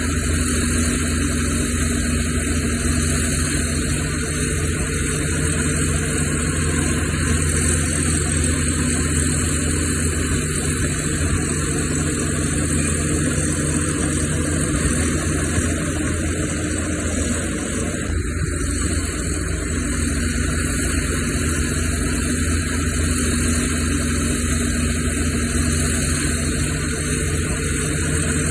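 Heavy diesel earthmoving machinery running steadily, its engine note shifting briefly a little past halfway.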